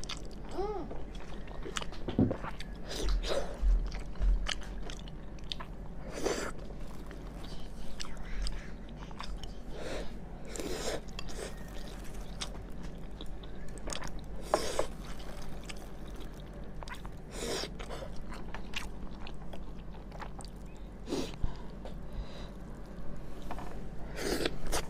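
A person eating close to the microphone: chewing, with a short, sharper bite or mouth sound every few seconds.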